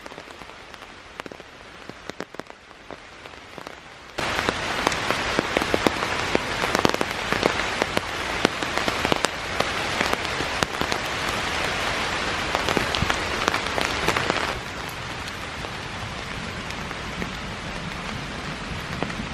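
Rain falling, with many separate drop hits heard through a steady hiss. It turns abruptly much louder about four seconds in and drops back to a lighter level about ten seconds later.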